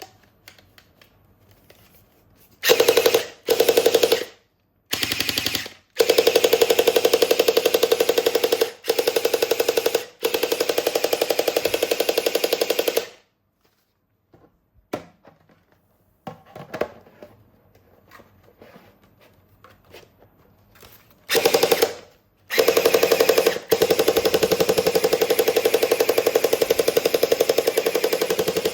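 Toy gun firing, a fast rattling run of shots in repeated bursts: several short bursts, then long bursts of a few seconds each. In the quiet stretch between them there are small plastic clicks of the toy being handled.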